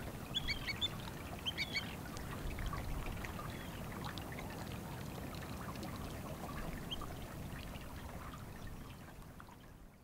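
Two quick bursts of short, sharp bird calls within the first two seconds, over a steady trickling, lapping wash of water that fades out near the end.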